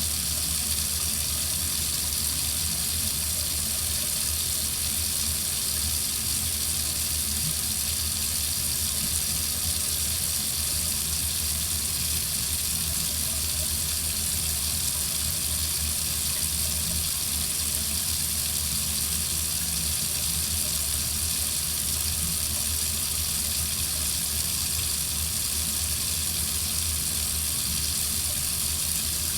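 Water tap running steadily: an even, unbroken hiss of flowing water with a low hum beneath it.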